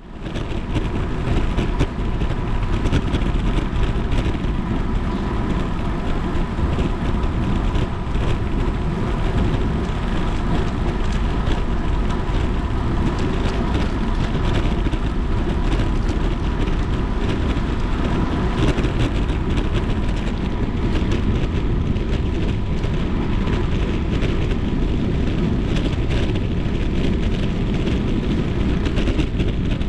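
Steady rush of wind noise on the microphone, mixed with rain and the hiss of bicycle tyres on a wet road.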